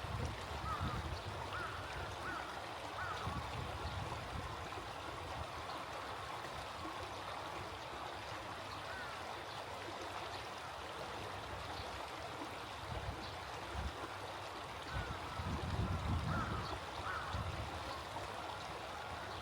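Small stream running steadily, with a few short calls of water birds in the first seconds and again near the end.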